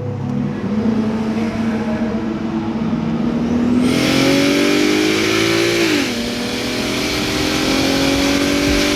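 BMW 335i (E90) turbocharged straight-six accelerating hard. The engine note climbs steadily, drops sharply at an upshift about six seconds in, then climbs again in the next gear.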